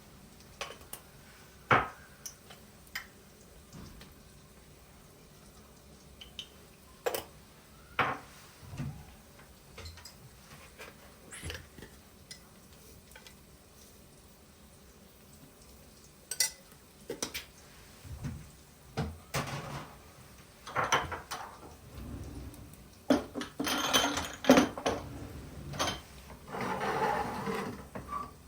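Kitchen dishes and cutlery clinking and knocking: scattered single taps at first, then busier, longer handling noises in the last several seconds.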